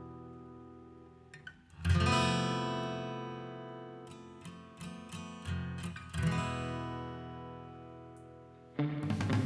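Acoustic guitar music: strummed chords that ring out and slowly fade, struck again about two seconds in and about six seconds in, with lighter plucked notes between; a fuller, louder passage begins near the end.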